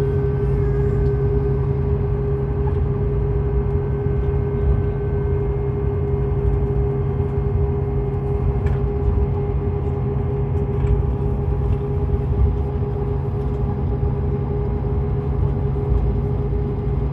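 Scania K410EB6 coach running at steady speed: a continuous engine and road drone with a constant hum and no change in pitch.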